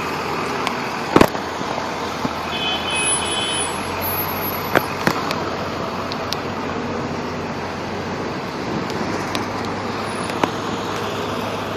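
Steady city street traffic noise as a pickup truck drives past, with a few sharp knocks, the loudest about a second in.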